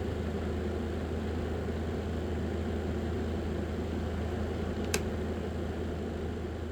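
Small electric fan motor running steadily with a low hum, with a single sharp click about five seconds in.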